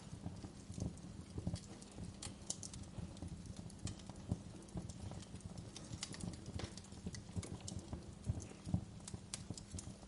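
Fireplace crackling: a steady run of irregular sharp pops and snaps over a low bed of fire noise.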